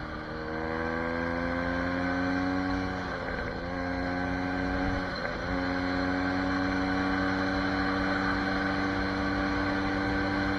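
SSR 150 dirt bike engine pulling away under throttle. Its pitch climbs, then drops at a gear change about three seconds in and again about five seconds in, then holds steady as it cruises in a higher gear.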